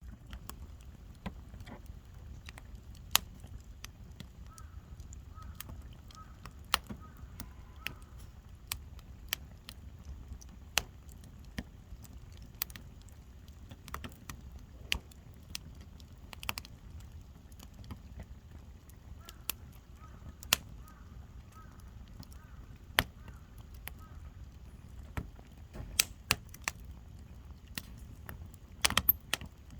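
Wood campfire burning: irregular sharp crackles and pops from the burning wood over a steady low rumble of the fire, with a quick flurry of pops near the end.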